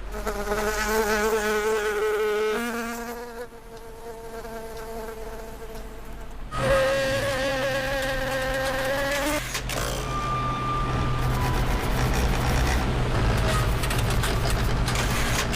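A buzzing whine that wavers in pitch, heard twice: once at the start for about three seconds and again, a little higher, for about three seconds in the middle. After that comes a steady low hum with scattered clicks.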